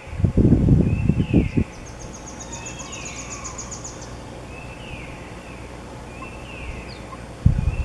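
A bird repeatedly gives a short call that slides downward in pitch, about once every second and a half. A fast, high series of ticks runs for about two seconds early on. Low rumbles, louder than the calls, come in the first second and a half and again near the end.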